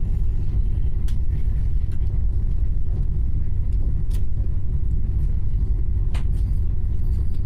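Passenger train running, a steady low rumble heard from inside the carriage, with a few sharp clicks about one, four and six seconds in.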